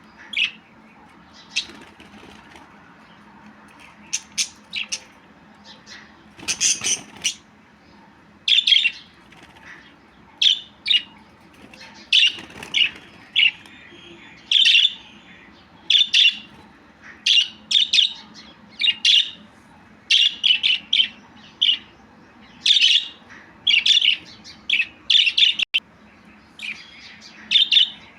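Budgerigar chirping: short, sharp chirps, only a few at first, then coming thick and fast from about eight seconds in.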